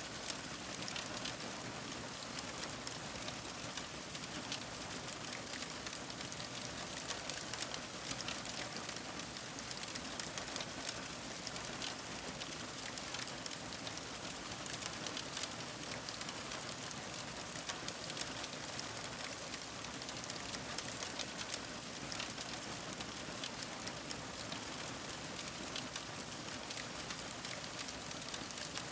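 Crackling fire: a steady hiss dotted with many small, quick pops and snaps.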